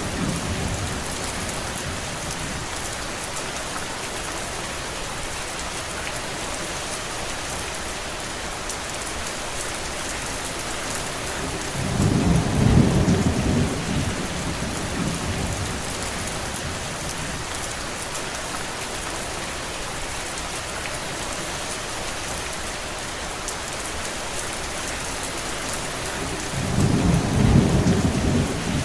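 Steady rain falling on surfaces, a dense even hiss. Two low rumbling swells rise over it for a few seconds each, one about twelve seconds in and one near the end.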